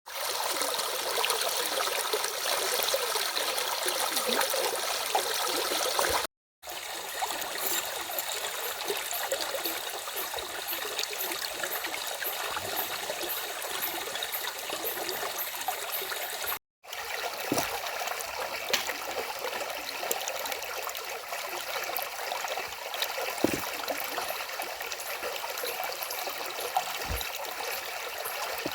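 Stream running steadily over rocks: an even, bright rush of water with little low rumble. The sound cuts out completely for a moment twice, about six and seventeen seconds in.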